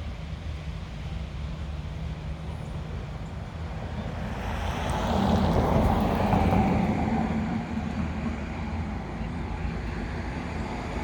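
Road traffic from a highway: a steady rumble, with one vehicle passing that swells louder about five seconds in and fades again a few seconds later.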